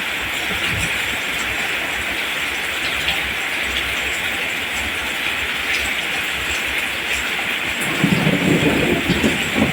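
Steady rain falling on rice plants, an even hiss with faint scattered drop ticks. A low rumbling comes in near the end.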